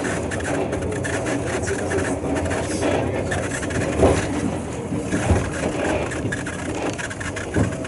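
Sherpa-kun tourist trolley train and its small diesel locomotive running slowly, a steady engine and wheel rumble with a few knocks from the track.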